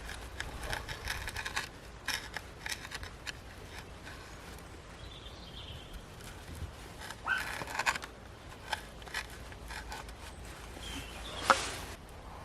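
Dry twigs and leaf litter rustling and snapping irregularly, with one sharp crack about eleven and a half seconds in.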